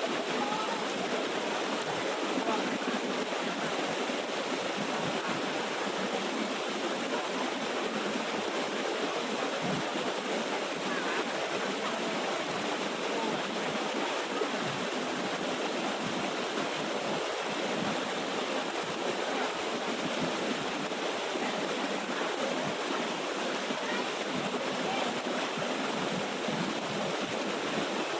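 Water of a small waterfall rushing and splashing, a steady unbroken noise.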